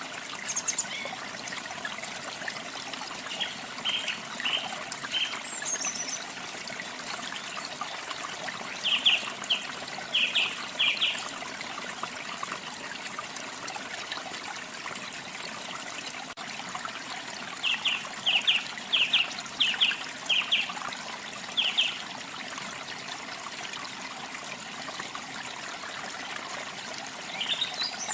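Steady running water, a small stream trickling, with a bird calling over it in quick runs of short repeated notes: a few around four seconds in, a longer run around ten seconds, and another near twenty seconds.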